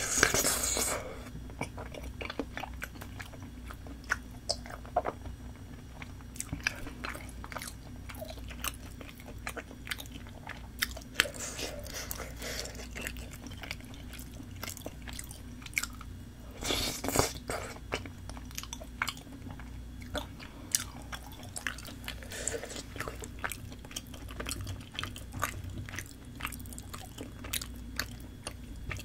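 Close-up chewing and wet mouth sounds of someone eating saucy tteokbokki rice cakes, with many small clicks throughout and two louder eating sounds, one right at the start and one about 17 seconds in.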